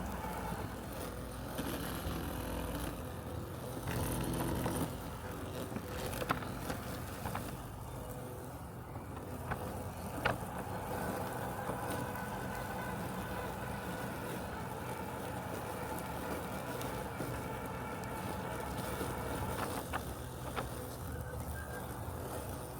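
Robotic lawn mower running with a steady low mechanical hum, broken by a few brief sharp clicks.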